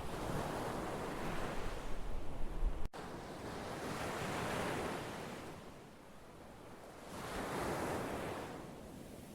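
Ocean surf: waves washing in and receding in slow swells, rising to a peak about every three seconds. A very brief break in the sound about three seconds in.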